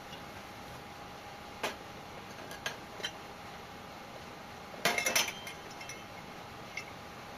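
Several separate sharp clinks and knocks, like hard objects being handled and set down, with a quick flurry of them about five seconds in.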